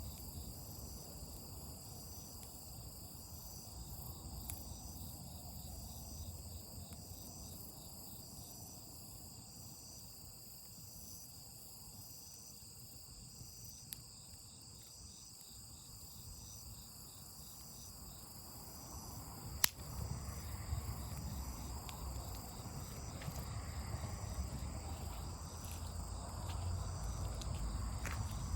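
Insects chirping in a steady, pulsing chorus over a low rumble that grows louder about two-thirds of the way through, with a few faint clicks and one sharp pop about twenty seconds in.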